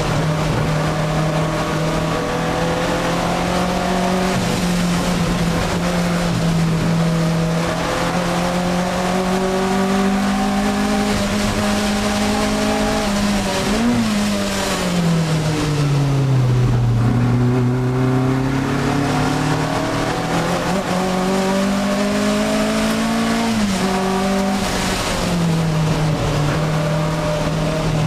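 Alfa Romeo 1750 GTV's twin-cam four-cylinder engine heard from inside the cabin, pulling hard at high revs on a race lap. About halfway through, the revs fall steeply as the car slows, stay low for a couple of seconds, then climb again through the gears, with a brief dip at a gear change near the end.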